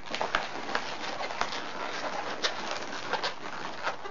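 Inflated latex twisting balloons, a 260 and white bee-body balloons, rubbing against each other and squeaking in short, irregular squeaks as they are twisted and wrapped together by hand.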